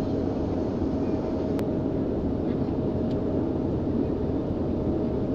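Airliner cabin noise during descent: a steady rush of engine and airflow noise, heaviest in the low end, with a thin steady hum over it and one faint click about a second and a half in.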